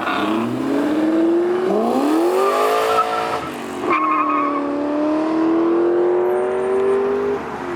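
Car engine accelerating hard through the gears: its pitch climbs, drops sharply at each gear change about two and four seconds in, then climbs slowly again until another shift near the end.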